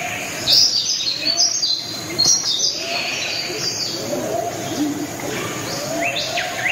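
Birds calling outdoors: loud, sharp, high chirps and falling notes in the first couple of seconds, over a lower call that repeats about once a second.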